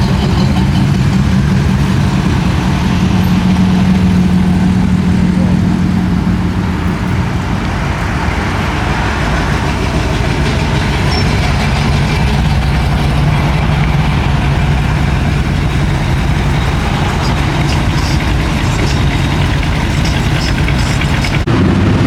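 Car engine running steadily with a low rumble. Its pitch eases a little about seven seconds in and steadies again, and the sound changes abruptly near the end.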